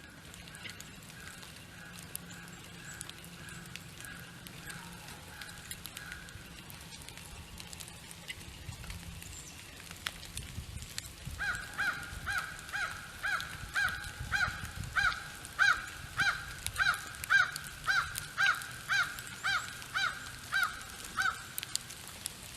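A bird calling a long series of loud, nasal, evenly spaced notes, about two a second, starting about halfway through after some fainter calls earlier.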